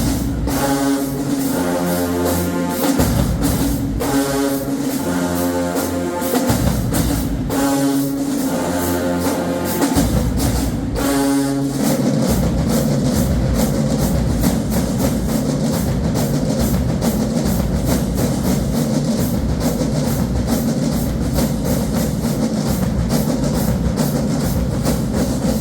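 HBCU marching band playing: brass chords in short phrases over drums, giving way about halfway through to a busier, fast drum-led rhythm.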